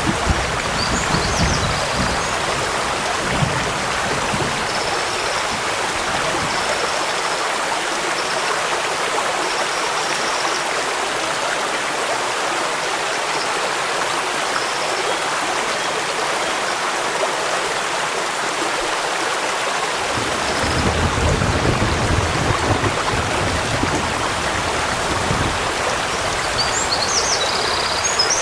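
A stream running over rocks: a steady rushing of water, with a deeper rumble swelling in about two-thirds of the way through and a few faint high chirps.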